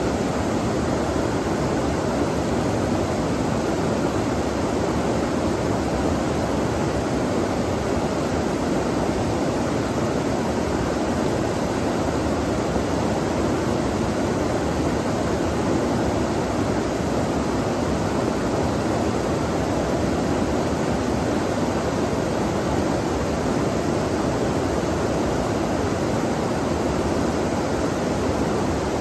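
Flowing water making a steady, even rush with no breaks or changes.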